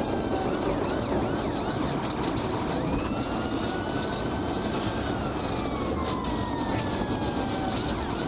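Police car siren wailing in slow rises and falls over steady loud road and engine noise during a vehicle pursuit.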